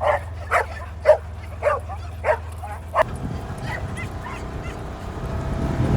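A dog yelping and whining in excitement, about six high, arching yips roughly two a second. About three seconds in they stop abruptly and a steady low rumbling noise takes over.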